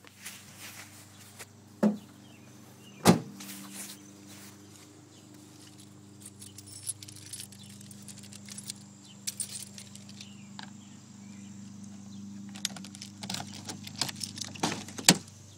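Handling noises around a car: two sharp knocks about two and three seconds in, then scattered clicks and a jingling clatter that thickens near the end, over a steady low hum.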